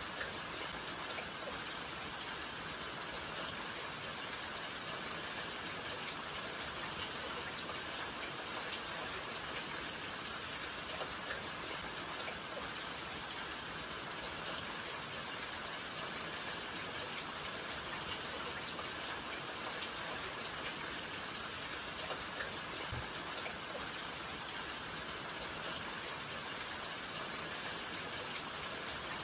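Steady rainfall, with drops pattering on a surface and a few faint individual drop ticks.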